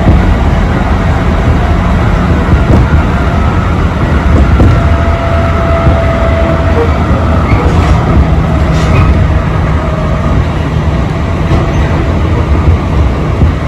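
Electric commuter train running on the JR Tokaido Line, heard from inside the carriage: a steady low rumble with a few faint whining tones.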